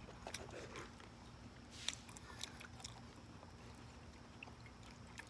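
Faint, quiet mouth sounds of biting and chewing into a whole squid braised in its own ink, with scattered small wet clicks, the clearest about two seconds in. A faint steady hum runs underneath.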